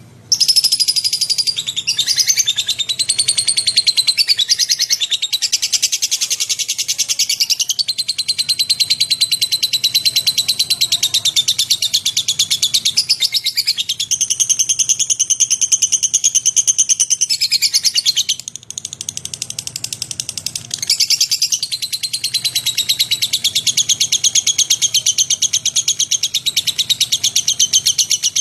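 Lovebird (Agapornis) singing one long, unbroken, high-pitched rapid chattering trill, which starts abruptly, falters and drops in loudness for a couple of seconds about two-thirds of the way through, then picks up again at full strength.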